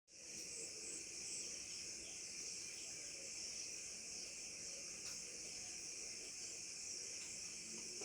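Steady, high-pitched trilling of an insect chorus in rural surroundings, fading in at the very start, with a few faint short chirps over it in the first second or so.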